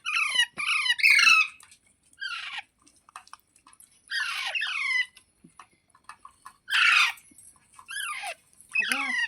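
Pet ringneck parakeet screeching: about seven harsh squawks, each falling in pitch, coming singly or in pairs with short silent gaps between.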